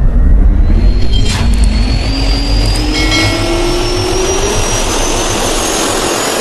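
Jet aircraft engines spooling up: a rising whine over a heavy low rumble and a growing rush of noise.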